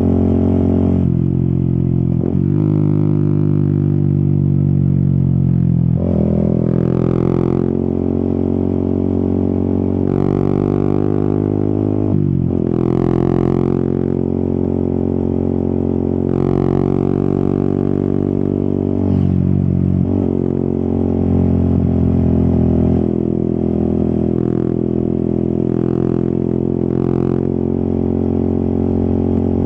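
Yamaha XSR 155's single-cylinder engine running under way on a ride. Its revs rise and fall, with several sudden jumps in pitch.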